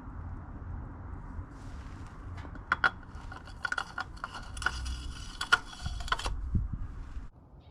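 Metal hand tools or parts clinking and rattling against each other in a quick series of sharp, ringing clicks.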